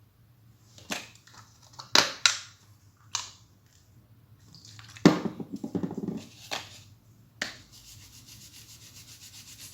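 A few clicks and knocks of handling, then a blank printed circuit board being wiped clean with alcohol, ending in a fast, even back-and-forth rubbing.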